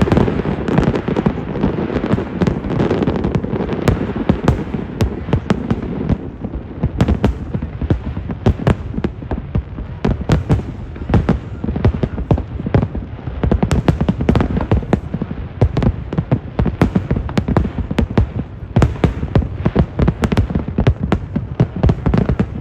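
Aerial fireworks bursting in a rapid, irregular barrage of sharp bangs and crackles, with a heavier low rumble in the first several seconds.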